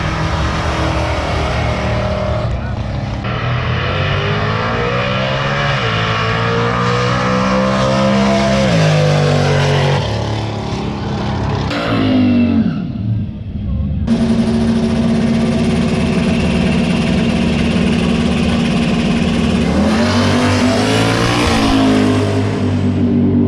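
Drag cars' engines revving and running at the strip. The pitch climbs and falls several times, and drops steeply a little before the middle like a car pulling away. After an abrupt change, one engine idles steadily, then revs up briefly and settles back near the end.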